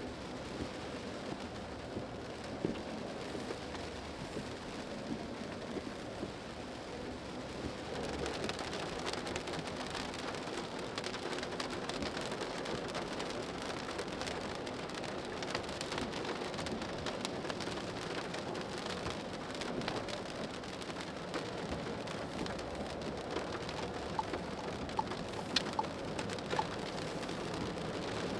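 Rain pattering on a moving car, a dense, steady spatter of drops that gets a little louder about eight seconds in.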